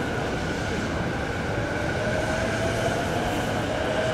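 Electric commuter train running past on an elevated track: a steady rumble with a thin whine that rises slightly in pitch from about halfway.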